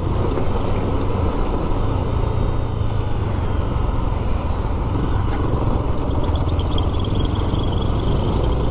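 Motorcycle engine running steadily with road and wind noise while riding in traffic; a faint high whine comes in about six seconds in.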